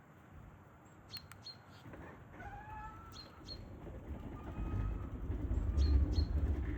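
Birds chirping in short high calls, with a low rumble that grows louder from about halfway through.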